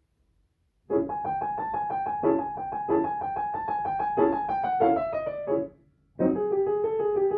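Piano played slowly with both hands: a held melody in the upper notes over repeated lower chords. It starts about a second in, the melody falls and the playing stops briefly near six seconds, then picks up again.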